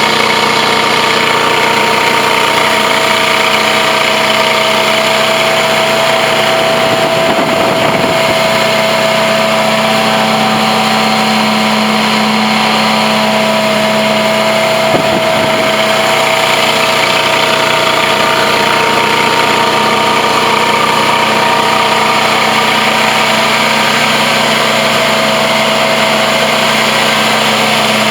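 Blue Baron Compact 45 truck-mount carpet extractor running steadily at working pressure, its engine, vacuum blower and high-pressure pump making a constant loud hum with a steady whine on top.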